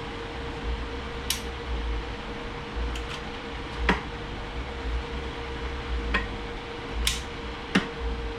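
A handful of short, sharp metallic clinks of tools and parts being handled during transmission assembly, over a steady workshop hum with a low rumble.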